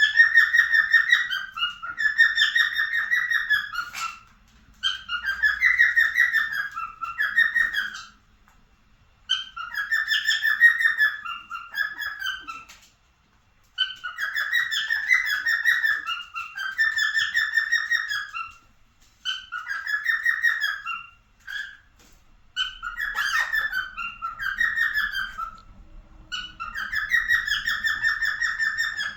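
Cockatiel singing its serenade: loud, warbling whistled phrases about one to three seconds long, repeated over and over, mostly in pairs with short pauses between them.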